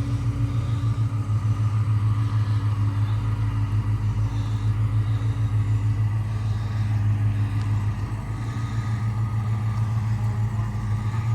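Car engine idling steadily close by, a low, even running note.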